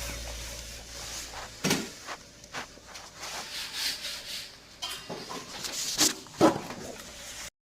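A compressor's steady low hum cuts off with a knock a little under two seconds in, followed by scattered knocks and rubbing sounds, the loudest near the end.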